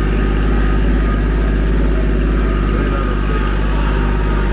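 Engine of a small vehicle running steadily as it moves slowly along a trail, a constant drone with a strong low end.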